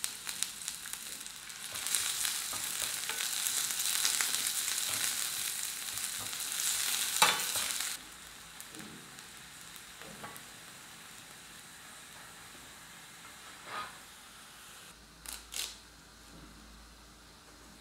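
Shallots and garlic sizzling in hot coconut oil in a metal pan. The sizzle grows louder about two seconds in, then drops suddenly about eight seconds in to a quieter fry, broken a few times by a metal spoon scraping and stirring against the pan.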